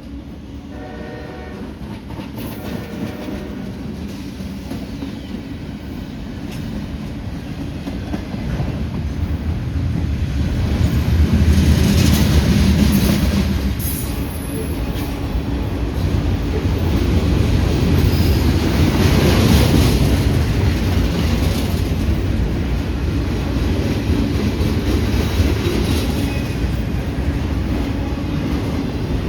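CSX diesel freight train passing close by: heavy engine and wheel rumble with clattering over the rail joints, building to two loud peaks. A horn blast trails off in the first few seconds.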